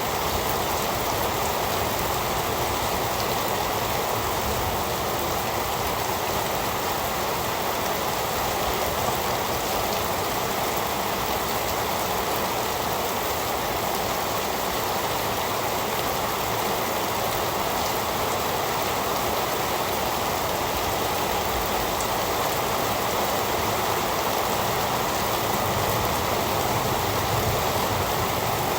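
Heavy rain falling steadily, an even hiss of drops that keeps on without a break.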